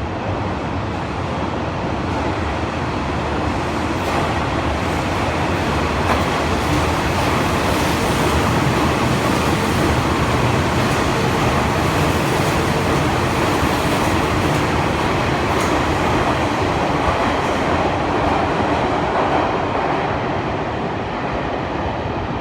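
A train running through an underground station without stopping: a steady rumble and clatter of wheels on rail that grows a little louder in the middle and eases near the end.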